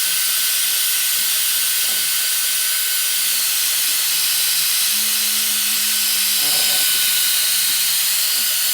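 A power tool's motor, just up to speed, runs at a steady high whine under a loud, even hiss, as in stripping rust and paint from a vice.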